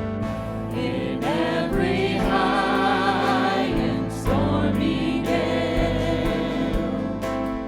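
Church music: voices singing a gospel hymn over sustained instrumental chords, with new sung phrases entering about a second in and again about four seconds in.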